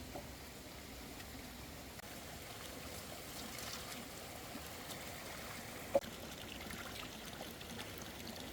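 Water trickling steadily, with one short sharp click about six seconds in.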